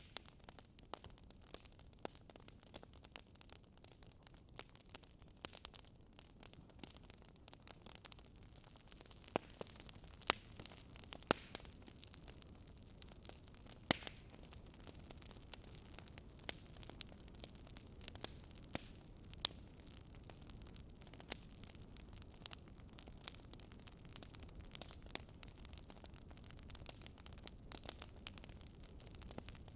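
Fire crackling: irregular sharp pops and snaps of varied loudness over a low, steady hiss.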